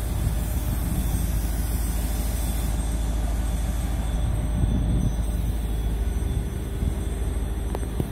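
Regional passenger train standing at the station platform, a steady low rumble, with a faint steady hum joining about six seconds in.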